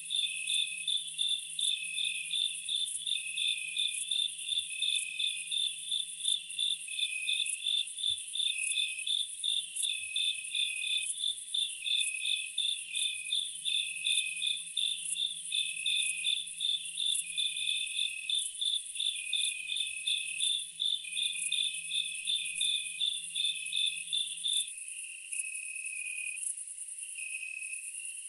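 Insects chirping: a rapid, regular chirp of about three a second over a slower pulsing call and a steady high-pitched buzz. The fast chirping stops near the end, leaving the slower call and the buzz.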